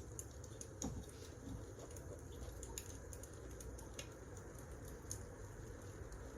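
Wood fire crackling: scattered small pops and snaps over a steady low rumble, one sharper snap about a second in.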